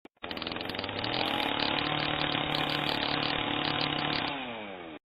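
A power tool's motor running steadily, then winding down in pitch near the end before cutting off.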